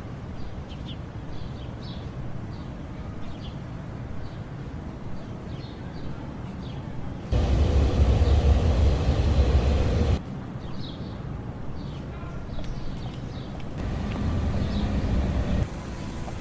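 Outdoor ambience: a steady low rumble with scattered short bird chirps. A louder stretch of rumbling noise cuts in about a third of the way through and cuts out abruptly about three seconds later.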